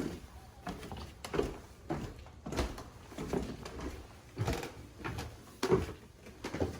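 Footsteps climbing a staircase: a series of dull thuds about one every half second to a second.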